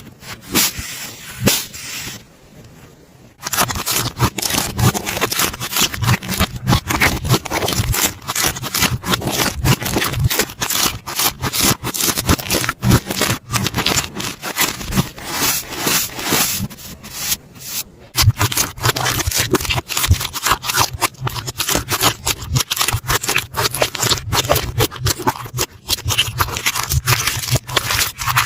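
Slime being squeezed and worked by hand close to the microphone: a dense run of crackles and clicks, with a short quieter pause about two seconds in.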